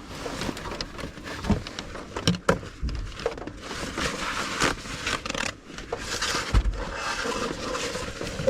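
Handling noise at close range: light knocks and clicks of small objects, with stretches of scraping or rubbing in the middle and near the end, as a plastic storage box is checked and wiped.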